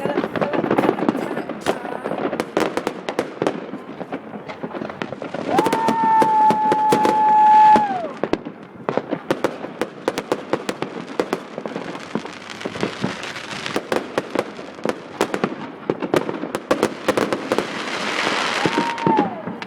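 Fireworks going off: rapid pops and cracks throughout. A loud steady whistle lasts about two and a half seconds, starting about five seconds in and dropping off at the end. Later come stretches of rushing hiss and a short whistle near the end.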